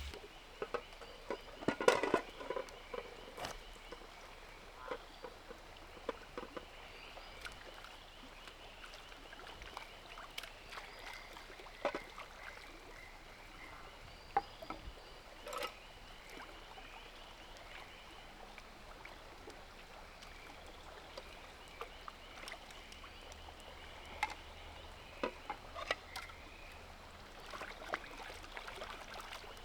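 Scattered knocks and clicks of objects being handled, with a cluster of clatter about two seconds in, over a faint steady rainforest background with faint high chirping calls.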